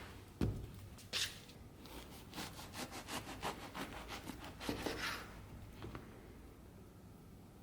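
A knock, then quick back-and-forth rubbing strokes against wood, about three a second, which die away about six seconds in.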